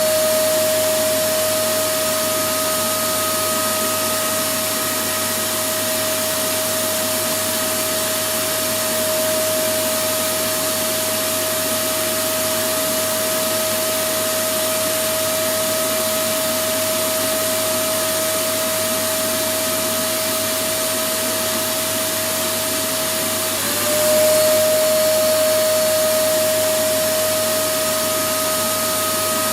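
Electric vacuum cleaner running steadily: an even rush of air with a constant high motor whine. About 24 seconds in, the whine dips for a moment and the sound swells slightly, then settles back to the same steady note.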